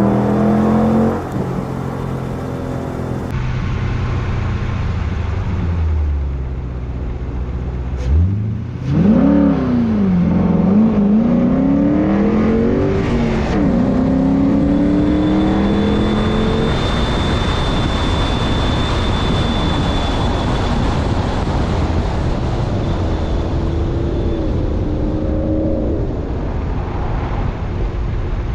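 Straight-piped Ford Mustang engine under hard acceleration. It drops suddenly about eight seconds in, then revs up and down through gear changes on a manual launch. Dense rushing exhaust and road noise follow at speed, with a thin high whine for several seconds in the middle.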